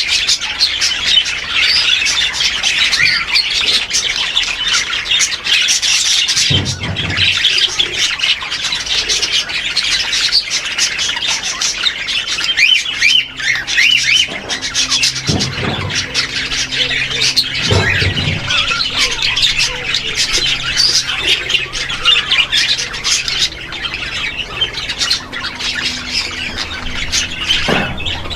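A flock of caged birds in an aviary chattering and squawking all at once, a dense continuous high-pitched din. A few louder, lower calls stand out now and then, one a few seconds in and several in the second half.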